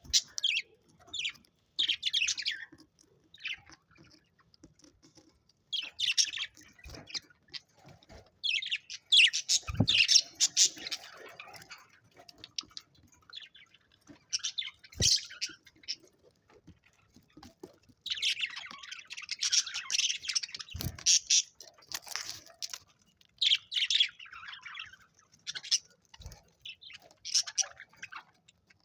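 Pet budgerigars chirping and chattering in short irregular bursts with brief pauses between them, with a few soft knocks.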